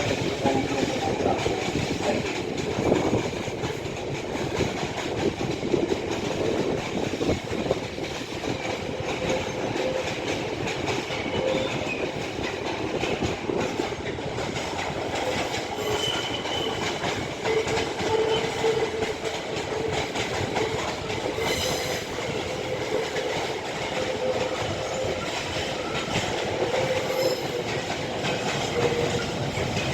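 A train running through a station at speed: steady rolling wheel noise with clickety-clack over rail joints, and faint intermittent wheel squeal.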